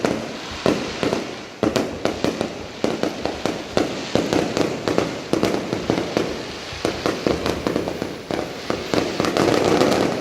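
Fireworks display: aerial shells bursting in a rapid, continuous series of bangs, several a second, over a low rumble of their echoes. The bursts grow denser and louder near the end.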